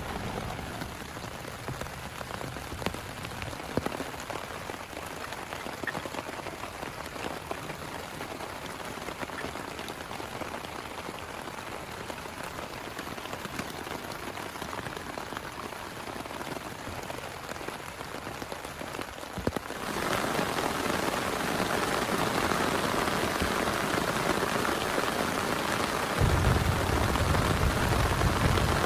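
Steady rain falling, with scattered individual drop taps. About two-thirds of the way in the rain sound abruptly gets louder and denser, and near the end a deeper low sound joins it.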